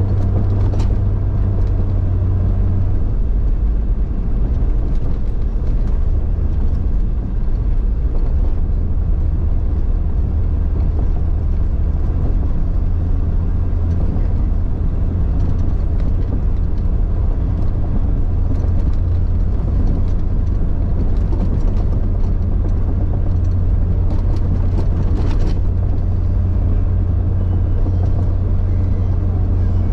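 1999 Jeep Cherokee XJ driving steadily with a low, even engine and drivetrain rumble, with a couple of faint knocks.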